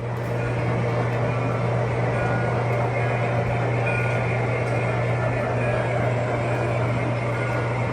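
A steady, unchanging machine drone with a strong low hum.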